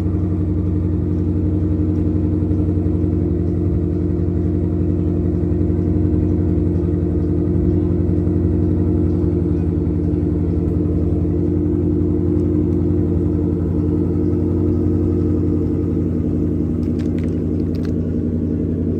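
A motor vehicle engine running steadily: a low, even drone with no revving.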